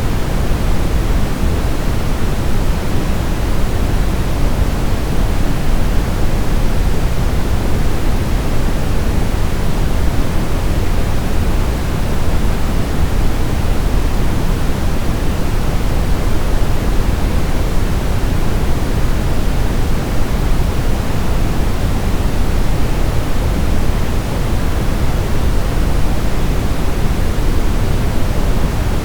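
Brown noise: a steady, even rushing hiss weighted heavily toward the low end, deep and rumbling with little treble, unchanging throughout.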